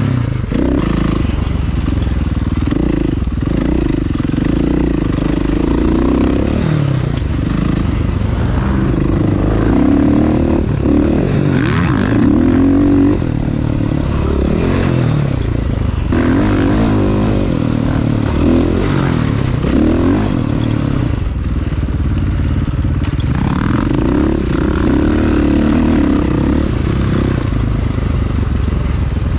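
Single-cylinder four-stroke dirt bike engine, a KTM 500 EXC, ridden on a motocross track. The revs rise and fall over and over as the bike accelerates and backs off through the course.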